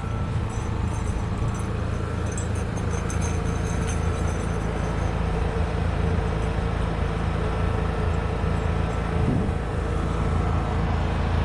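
Honda portable generator running steadily with a constant engine hum, powering the house during a grid outage.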